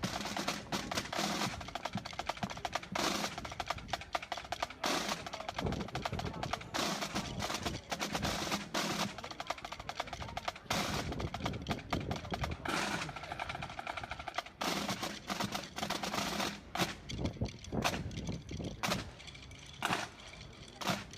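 Fireworks going off: a dense, rapid crackling with louder bangs every second or two.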